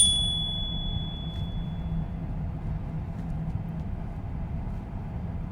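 Steady low road and tyre rumble inside the Tesla Cybertruck's cabin while driving. Right at the start a single high ding rings out and fades over about two seconds.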